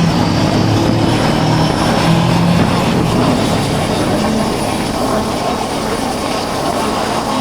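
Motorcycle engine running on the move under a loud, steady rush of wind. The engine's note is clear for the first couple of seconds, then sinks into the wind noise.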